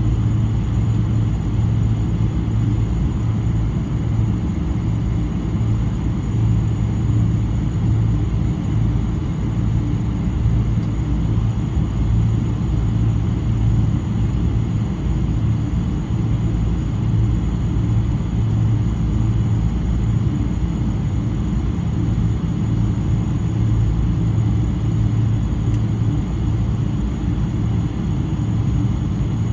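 Steady cabin drone of a Boeing 777-300 with Rolls-Royce Trent 800 engines, heard from a window seat: a low hum with a thin high whine above it, holding constant throughout.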